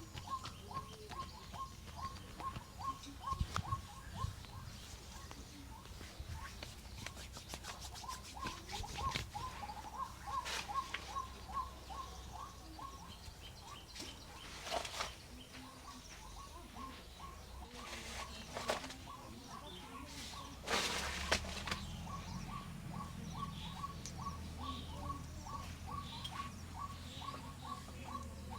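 A bird calling with a steady run of short chirps, about four a second, throughout. Over it come a quick run of tapping clicks and a few brief bursts of rustling noise.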